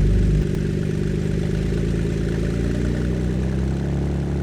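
Ford Flex's 3.5-litre twin-turbo EcoBoost V6 idling at about 1,000 RPM with an open exhaust. The engine note drops a little about half a second in, then runs steadily.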